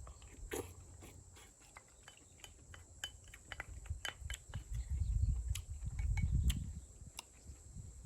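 Light clicks and taps of chopsticks and spoons against a cast-iron cauldron-lid pan during an outdoor meal, scattered irregularly, with a low rumble about five to seven seconds in.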